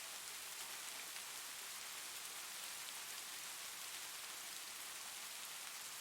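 Steady soft rain: an even hiss of many small drops that does not change.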